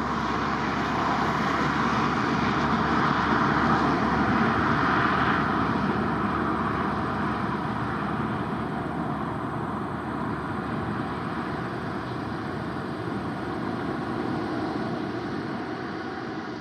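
Dassault Falcon 7X business jet's turbofan engines, a steady rushing jet noise with a faint whine running through it. It grows loudest about four seconds in, then slowly fades.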